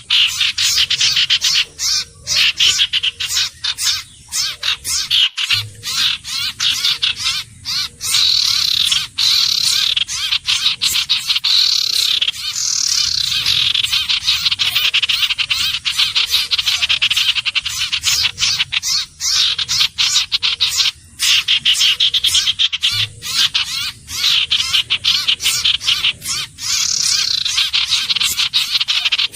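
Iora calls: a fast, dense, high chattering trill of rapid notes, almost unbroken, with a few brief gaps.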